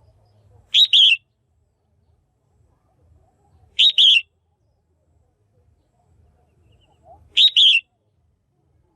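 Female red-whiskered bulbul calling: three short, loud double-noted calls about three seconds apart.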